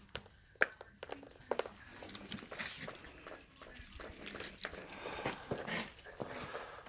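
Scattered clicks, knocks and rustling as a small dog moves about, with faint dog sounds.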